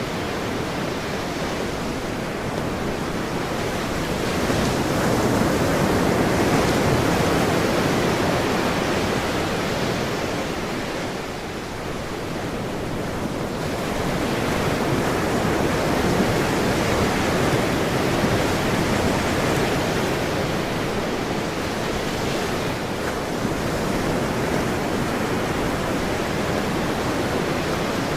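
Ocean surf: a continuous wash of breaking waves that swells and ebbs slowly, louder around a quarter of the way in and again past the middle, with a brief lull between.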